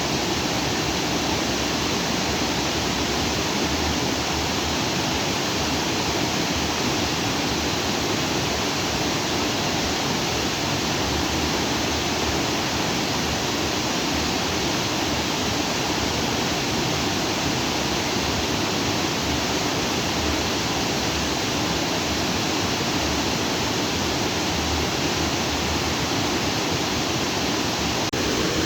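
Lake-outflow stream rushing steadily over and between rocks.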